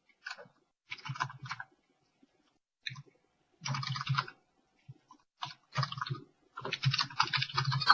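Scattered clicking and small handling noises close to the microphone, in short clusters with silent gaps between.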